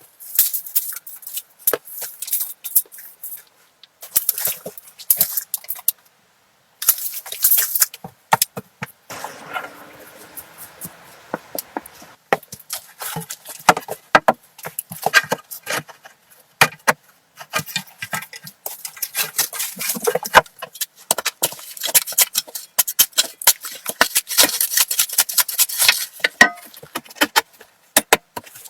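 A rapid, irregular series of sharp clicks and knocks, with brief pauses between runs.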